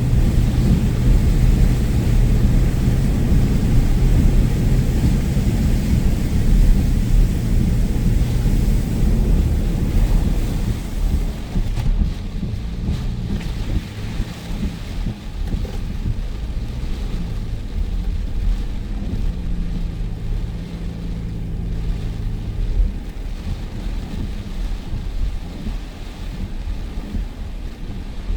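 A vehicle driving through a heavy rain and wind storm makes a continuous low rumble, with wind buffeting the microphone. The hiss of rain is heavier at first and thins out about twelve seconds in.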